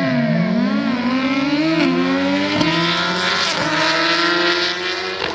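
A racing vehicle's engine revving unevenly at the start, then accelerating hard, its pitch climbing steadily for several seconds.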